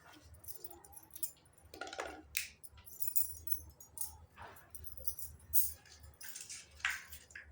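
Small plastic and metal toy kitchen pieces clicking and clinking as they are handled and set down, with short bits of rustling, in an irregular run of light taps.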